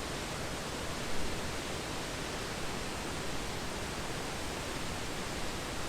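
Steady rush of a large waterfall running high, an even hiss of falling water and spray, with a short louder moment about a second in.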